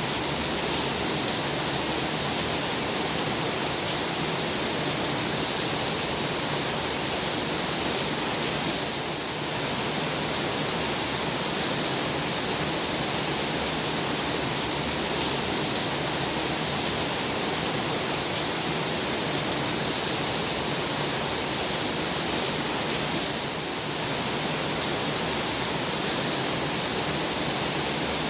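Heavy rain falling: a steady, dense hiss with no individual drops standing out, dipping slightly twice.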